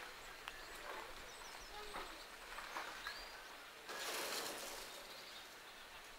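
Small birds chirping faintly over quiet outdoor background, with a brief rushing hiss lasting about a second, about four seconds in.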